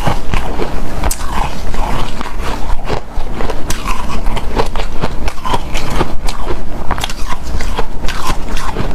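Close-miked chewing of hard, powdery refrozen ice: a continuous run of sharp crunches, several a second, as the ice packs and breaks between the teeth.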